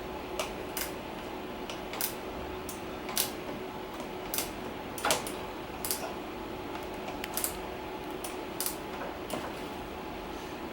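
Wrench working a motorcycle brake-line banjo bolt tight: short metal clicks and clinks at irregular intervals, over a steady low hum.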